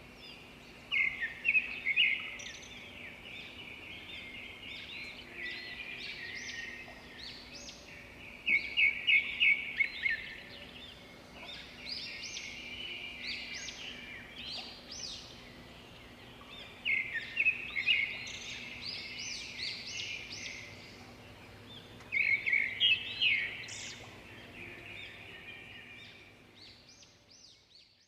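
A songbird singing: four loud phrases of quick, rising high notes a few seconds apart, with quieter chirping between them. A faint steady hum lies underneath.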